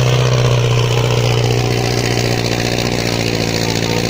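Tractor's diesel engine running steadily at a constant pitch.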